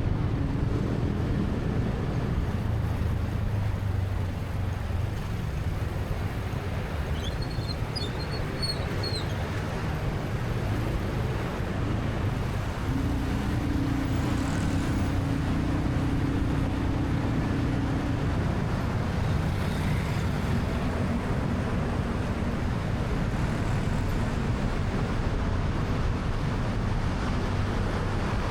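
Motorcycle taxi ride through city traffic: steady wind rush and road noise with the engines of the bike and surrounding vehicles. A low steady drone rises out of the mix for a few seconds around the middle, and a few brief high chirps sound about a third of the way in.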